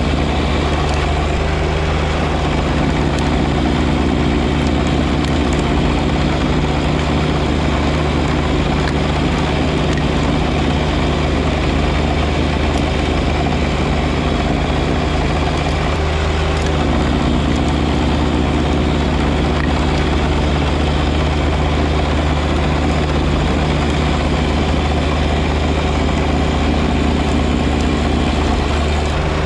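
John Deere 1025R compact tractor's three-cylinder diesel engine running steadily at working speed, with a steady hiss of mechanical noise over it. The note shifts slightly a few times, about 16 seconds in and near the end.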